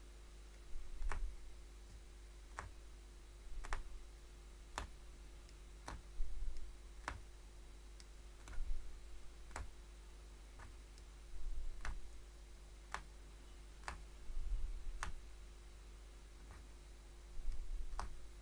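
Hollow punch needle stabbing through stretched fabric, a sharp click about once a second at a slightly uneven working pace, with faint rustling of thread and cloth between punches.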